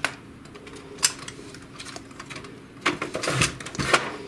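Clicks and clatter of an inkjet printer's plastic and metal parts being handled during disassembly: a sharp click at the start and another about a second in, then a burst of rattling clicks near the end.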